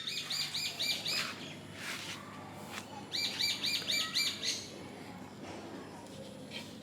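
A bird singing: a quick run of five or six repeated high chirps, then after a pause another run like it about three seconds in.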